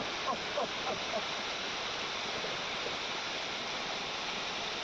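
Waterfall water rushing steadily, with a few brief faint voices in about the first second.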